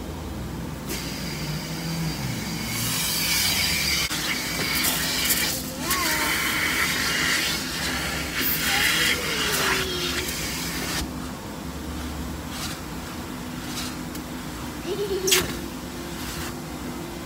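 A loud hiss of spraying water, probably on the car's body during a car wash, heard from inside the car. It builds over the first few seconds and stops abruptly about eleven seconds in, over a steady low hum.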